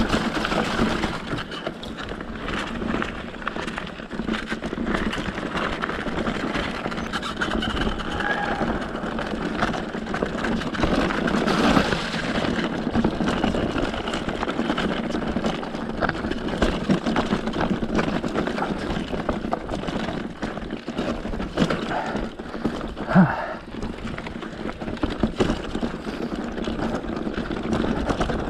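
E-mountain bike riding over a dirt trail: a steady rush of tyre and wind noise with frequent small rattles and knocks, and one louder knock about three-quarters of the way through.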